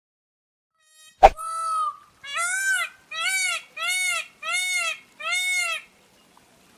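A bird calling: a sharp click, then one longer note that slides down, then five evenly spaced arched notes, each rising and falling and rich in overtones, about three-quarters of a second apart.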